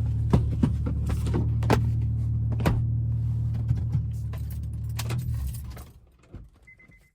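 Straight-piped V6 engine of a manual Honda Accord idling steadily, with keys jingling and clicking. About five and a half seconds in, the engine is switched off and the hum dies away. A short high beep follows near the end.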